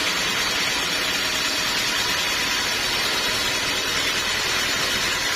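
Sawmill machinery running steadily, an even hiss with a low hum under it.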